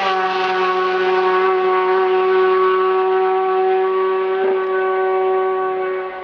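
A long, steady horn-like tone, its pitch settling down just at the start and holding level for about six seconds before it fades near the end.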